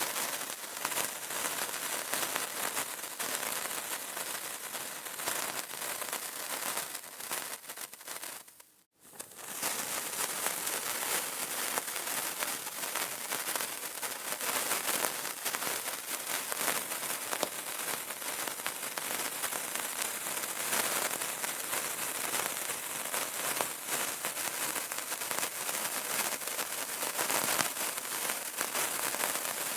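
Burning candle crackling steadily: a dense run of small snaps and pops with no let-up, except for a brief dropout about nine seconds in.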